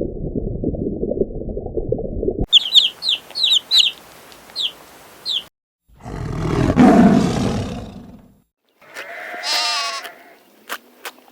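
A string of separate animal sounds cut one after another. First a low rumbling noise, then a run of short high chirps, then a harsh drawn-out call, and about nine seconds in a shorter wavering pitched call.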